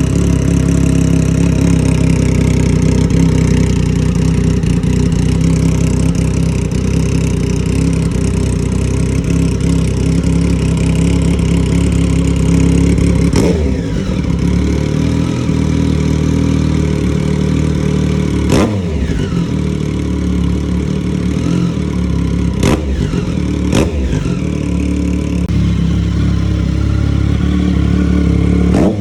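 Triumph motorcycle engine running loudly through an aftermarket replica exhaust, idling steadily. In the second half come a few sharp throttle blips, each dropping back to idle.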